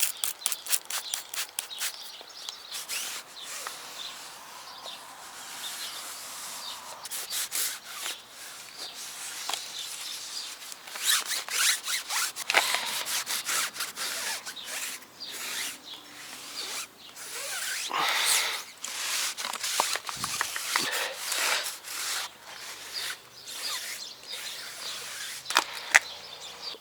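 A foam applicator pad rubbing tire dressing onto a tire's rubber sidewall in repeated scrubbing strokes, quick at first and then irregular.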